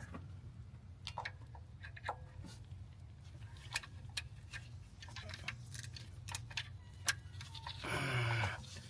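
Hand tools and metal parts clicking and clinking at irregular intervals while working on the AC compressor in the engine bay, over a low steady hum. A louder, short rustling burst comes near the end.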